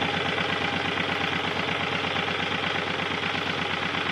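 Vintage Lister Petter stationary engine with magneto ignition, running steadily with an even, rapid beat, now running nicely after its spark timing and carburettor were adjusted.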